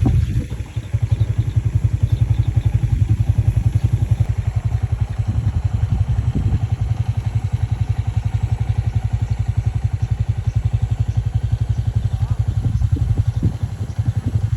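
An engine running steadily, with a rapid, even low throb.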